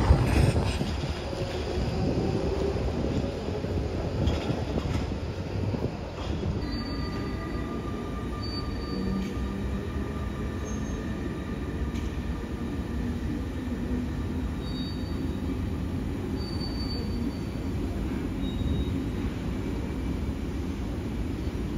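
Electric passenger train moving slowly through a station, a steady rumble with faint thin wheel squeals from about six seconds in.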